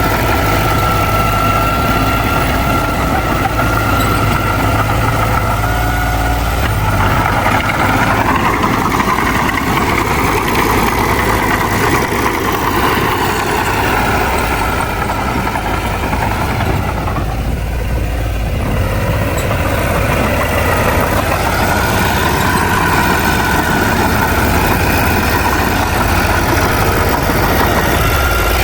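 Bulldozer's diesel engine running continuously under varying load; its pitch rises about a third of the way in, sags briefly past the middle, then picks back up.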